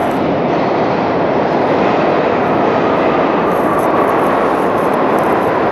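Subway train running through the station: a loud, steady rumble with a faint whine that slowly drops in pitch.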